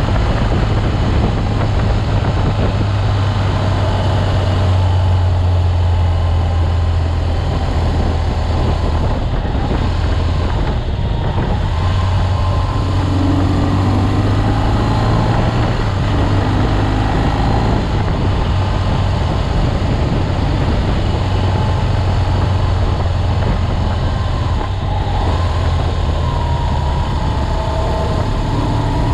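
BMW R 1200 GS boxer-twin engine running at a steady cruise, a low drone with wind rushing over it; the drone eases off briefly twice.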